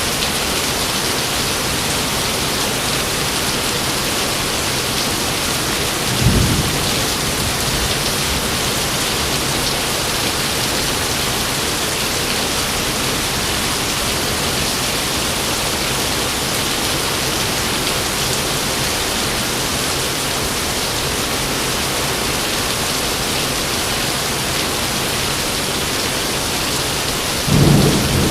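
Steady rain with two short, deep thunder rumbles, one about six seconds in and another near the end.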